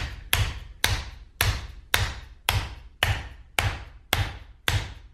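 Flat of a hand tapping down on the top of a tight-fitting 3D-printed plastic air-rifle suppressor, the Pitbull Airguns Mega Moderator, in a steady run of about two taps a second, seating it snugly onto the rifle.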